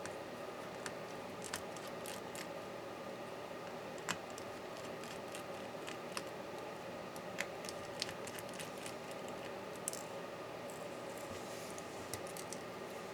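Scattered small clicks and taps from small tools and MacBook Pro parts being handled during disassembly, a sharp one every second or two, the loudest about four seconds in, over a steady background hum.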